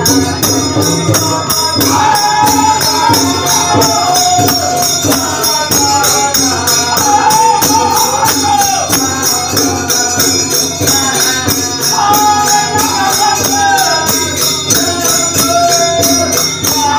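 Devotional bhajan: a man singing over a steady, fast beat of jhal hand cymbals, with a drum accompanying.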